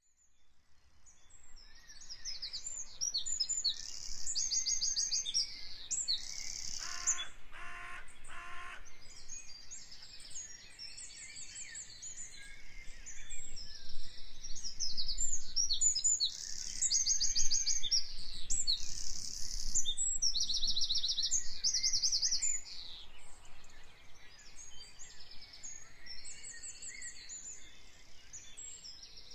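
Songbirds singing at once in woodland, dense high trills and chirps overlapping one another, fading in over the first couple of seconds. About seven to nine seconds in, a lower bird call sounds three times.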